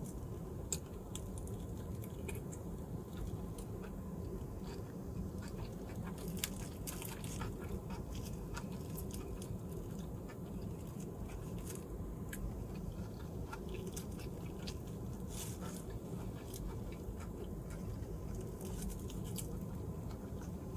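Close-up chewing of a sushi burrito: soft, wet chewing with many small mouth clicks and smacks throughout, over a steady low hum.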